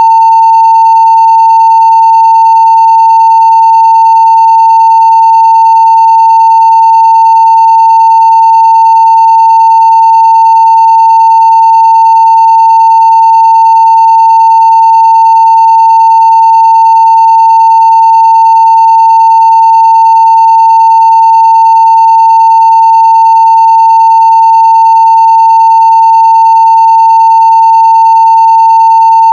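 Steady 900 Hz sine-wave test tone at full scale (0 dB), one unbroken pitch with faint higher overtones.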